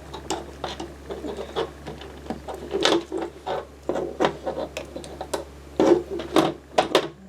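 Plastic Lego bricks clicking and knocking as they are handled and pressed together: a string of irregular clicks, with the loudest ones about three seconds in and near the end.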